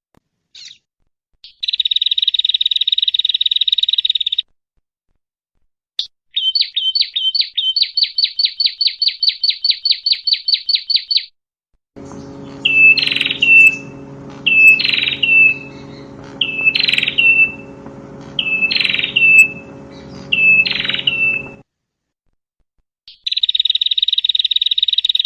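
Small songbirds calling in separate recordings cut one after another. First comes a rapid buzzing trill, then a long run of quick repeated chirps, then five loud calls about two seconds apart over a steady low hum, and the buzzing trill again near the end.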